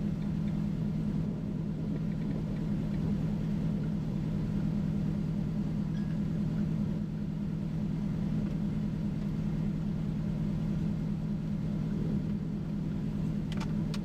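Steady low drone of a vehicle engine running, unchanging throughout, with a couple of faint clicks near the end.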